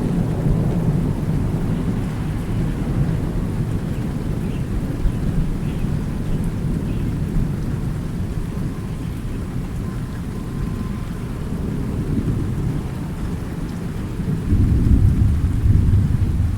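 Steady rain with rolling thunder, a deep rumble that eases off and then swells up again near the end.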